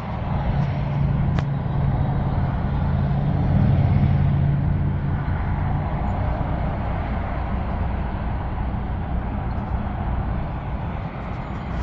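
Motor vehicle engine hum and road noise, swelling to a peak about four seconds in and then easing off.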